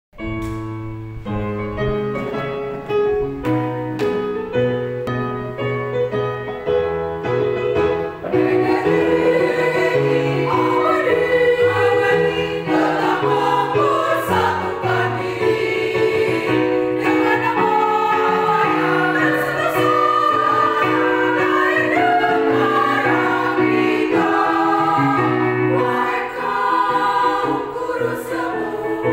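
Music: a quieter accompanied opening, then a choir singing from about eight seconds in.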